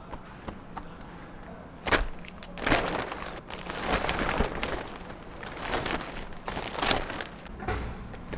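Plastic shrink wrap being torn and crumpled, in several separate rustling bursts.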